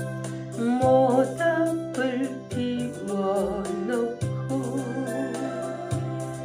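Karaoke-machine backing track for the song intro: electronic organ chords held under a wavering lead melody line.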